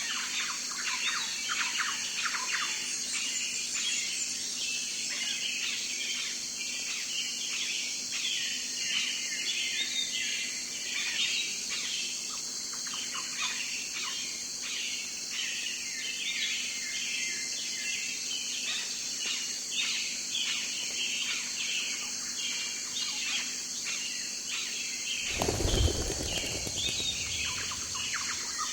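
Many small birds chirping and twittering in quick, overlapping calls, over a steady high hiss. A brief low rumble breaks in near the end.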